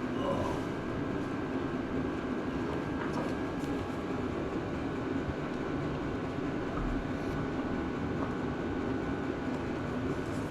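Steady droning background noise, even in level throughout, with a faint steady high tone running through it.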